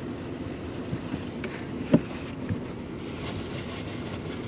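Steady low rumble of wind buffeting the truck camper, with one sharp knock about two seconds in, as something is set down while the cook works with the peppers.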